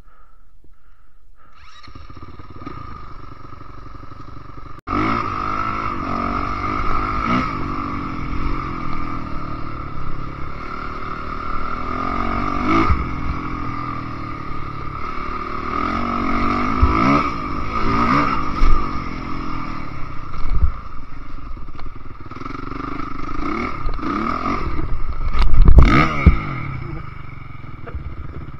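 Enduro dirt bike engine revving up and down while riding a trail, its pitch rising and falling over and over; it gets suddenly louder about five seconds in. Near the end there is a louder burst of revving with clatter.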